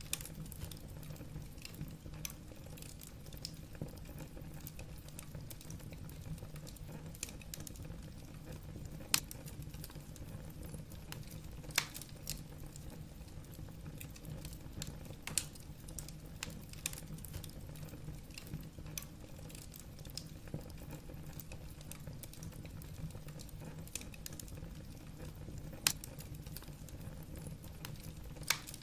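Wood fire burning in a fireplace: a steady low rumble of the flames with irregular crackles and pops of the logs, a few sharper snaps standing out.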